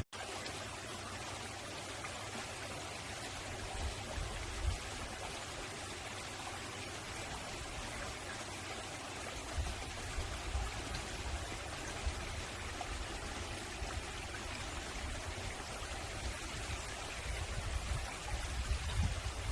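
Mountain valley stream flowing over rocks: a steady, even rush of water, with a brief cut-out right at the start.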